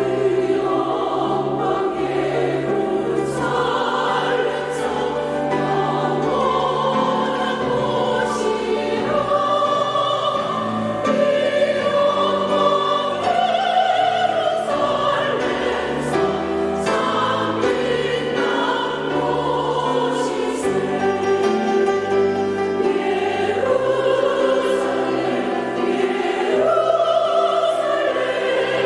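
Church choir singing a sacred anthem in parts, sustained sung phrases with no break.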